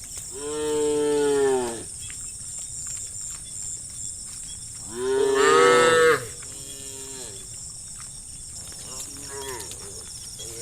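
Livestock calling: two long, loud calls of over a second each, one near the start and one about five seconds in, followed by shorter, fainter calls.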